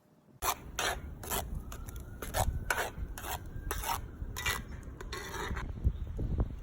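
Repeated rasping scrapes, about two strokes a second, starting about half a second in.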